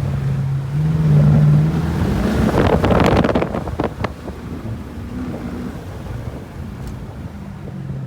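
Straight-piped 5.7-litre Hemi V8 exhaust of a Dodge Charger R/T, resonator and mid-muffler deleted, droning as the car drives. The pitch rises a little about a second in, then a loud rush of wind noise on the microphone through the open windows swamps it for a second or two in the middle before the drone settles back quieter.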